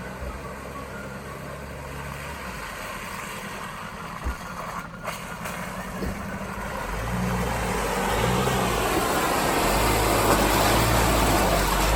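Off-road vehicle's engine running as it drives, getting louder over the second half with its pitch shifting in steps.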